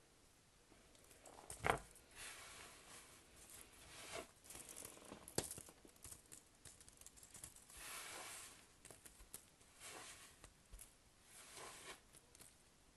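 Soap packaging being unwrapped by hand: intermittent tearing and crinkling of wrappers, with a sharp click about two seconds in and another about five seconds in.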